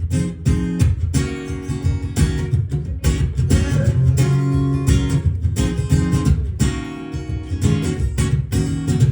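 Instrumental break in a live pop song: strummed acoustic guitar chords over bass, with no singing.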